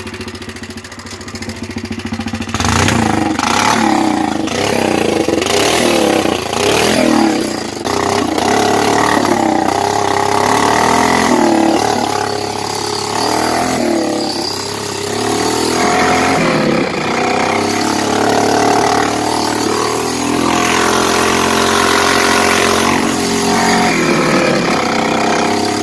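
Honda 300EX ATV's single-cylinder four-stroke engine revving up again and again as it is ridden and shifted up through the gears, its pitch climbing and dropping with each gear. It gets louder about two and a half seconds in.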